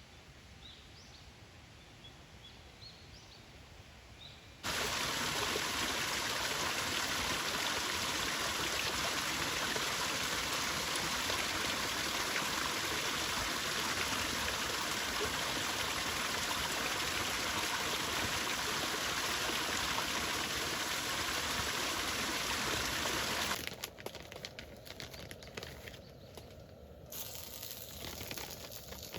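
Faint bird chirps, then about five seconds in a loud, steady rush of flowing stream water starts abruptly and runs for about twenty seconds before dropping away to quieter, uneven sounds near the end.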